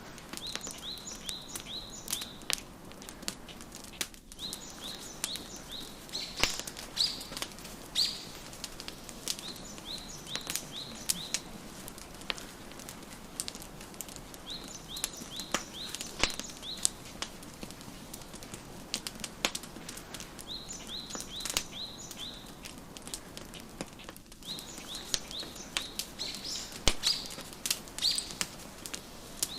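Wood fire crackling, with irregular sharp pops over a steady hiss. A songbird sings through it in bursts of quick, high chirps that come back every few seconds.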